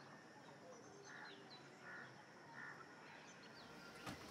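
Faint birdsong: scattered short chirps, several falling quickly in pitch, over a low steady background hiss.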